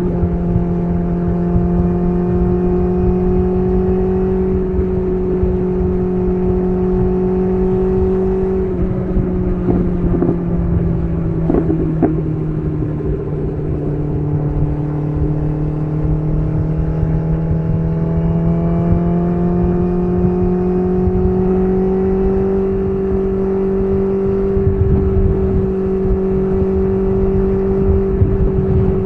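BMW S1000RR's inline-four engine running through an SC Project CR-T titanium exhaust under way at a steady, high note. About nine seconds in, the pitch drops as the throttle eases, with a few sharp cracks, then it climbs back to the same note.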